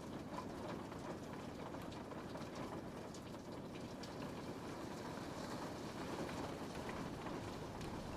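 Rain falling on a window pane: a steady hiss of rain with scattered small ticks of individual drops striking the glass.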